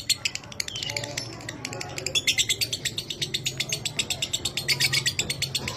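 Lovebird singing a long, rapid chattering trill (ngekek) of high, dry chips, many per second, thinning briefly before picking up again. A faint low hum runs underneath.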